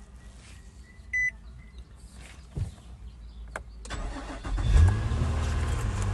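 2016 Nissan Altima engine being started: a short electronic beep about a second in and a couple of clicks, then the starter cranks at about four seconds and the engine catches. It settles into a steady idle near the end.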